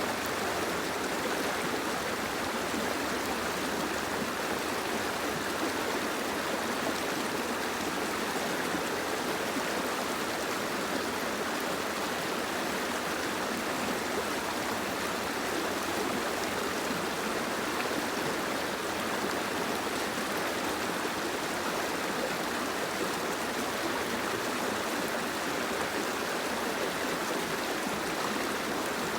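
Steady soft rain: an even, unbroken hiss of falling water.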